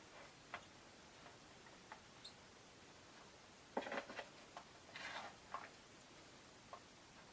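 Caged rosy-faced lovebirds making small clicks and taps, with a cluster of louder clicks about four seconds in and a brief rustle about a second later; one tiny high chirp about two seconds in.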